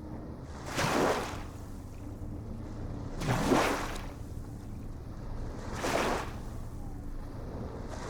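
Ocean waves washing in, three surges about every two and a half seconds over a steady low rumble of surf.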